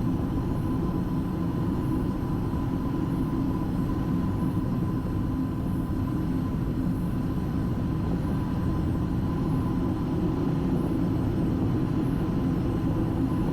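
Steady cockpit noise of a Boeing 757 freighter on the ground: an even low rumble with a faint constant high tone, unchanging throughout.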